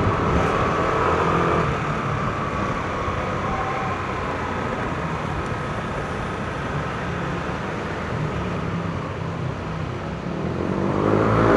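Yamaha NMAX scooter riding along at steady speed, its engine and drive mixed with road and wind noise. Near the end an engine sound swells louder.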